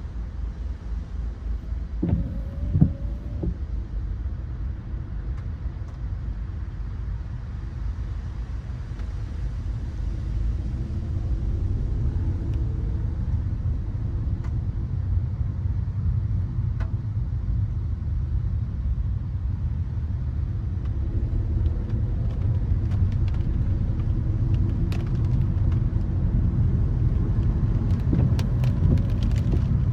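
Car driving on wet city streets: a steady low rumble of road and engine noise that grows a little louder partway through. A couple of knocks come about two to three seconds in, and faint scattered ticks come near the end.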